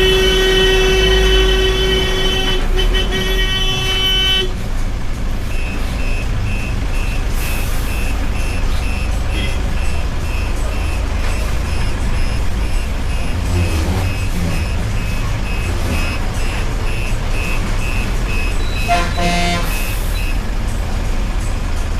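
Heavy vehicle engines rumbling low on a hairpin climb. A long single-pitched horn blast sounds for about the first four seconds, then a high electronic warning beeper repeats about twice a second, with a short second horn honk near the end.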